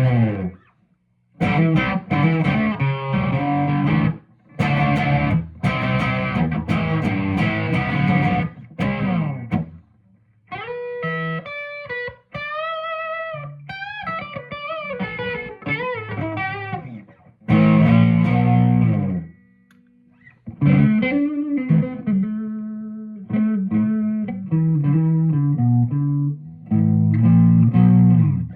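1995 Gibson Les Paul Studio electric guitar with 490R and 498T humbucker pickups, played through an amp. Chords with short stops for about ten seconds, then a single-note lead line with string bends, then chords and riffs again.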